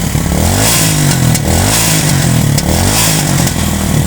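Motorcycle engine revving up and down repeatedly, about once a second, with the throttle blipped in quick cycles.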